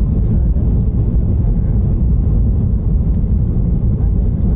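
Airliner coming in to land: a loud, steady low rumble of engines and rushing air.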